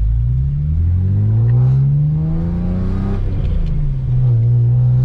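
Car engine accelerating: its note climbs steadily for about three seconds, drops sharply, then holds a steady drone.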